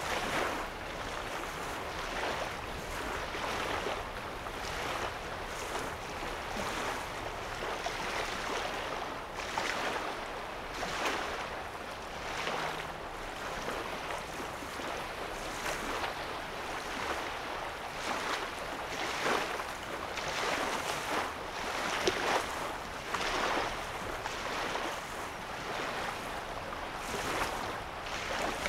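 Small waves lapping on the sandy shore of a calm lake, a soft splash every second or two.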